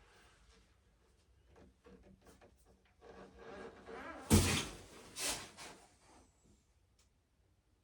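Handling noise with faint clicks and rustling, then a loud thud about four seconds in and a second, lighter thud about a second later.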